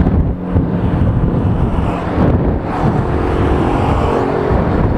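Motorcycle engine running at road speed under heavy wind rush on the rider's microphone, the engine note shifting in pitch around the middle.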